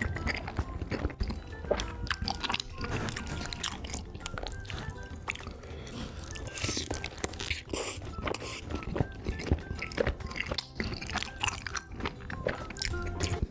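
Close-miked eating: biting into and chewing a corn dog coated in creamy rosé tteokbokki sauce, with a dense run of wet, sticky mouth clicks and smacks.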